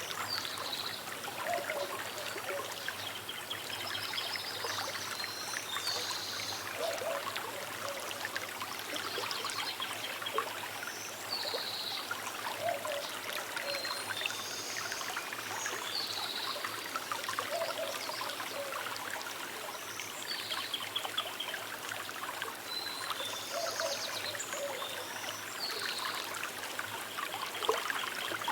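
Small river trickling and burbling steadily over stones, with birds calling in short high phrases every few seconds.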